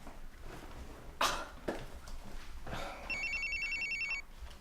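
Telephone ringing with a rapid electronic trill, one ring starting about three seconds in and lasting about a second. Before it come a few short swishing noises.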